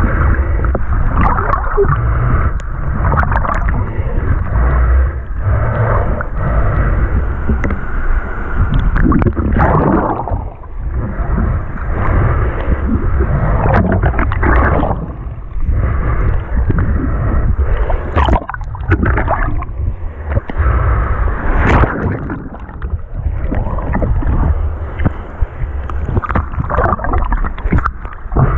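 Seawater sloshing and gurgling in shallow surf over a heavy low rumble, rising and falling irregularly.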